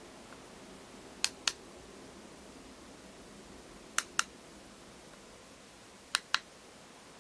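Three pairs of sharp clicks, the two clicks of each pair about a fifth of a second apart, over a faint steady hiss.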